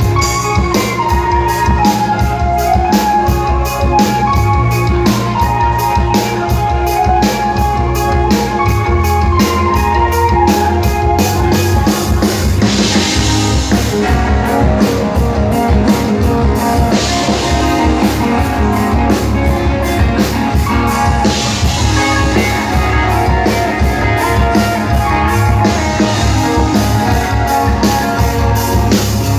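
Rock band playing live, drum kit keeping a steady, even beat under guitar, with no singing.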